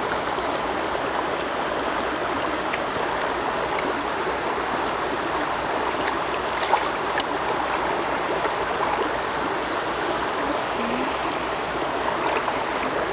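Steady rushing of running water, with a few faint sharp clicks, the loudest about seven seconds in.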